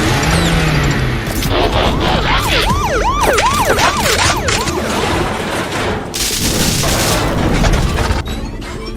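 Police siren yelping in rapid rise-and-fall sweeps, about three a second, starting about two seconds in and lasting about three seconds. It sits in a dense cinematic sound mix with thuds and booms and music.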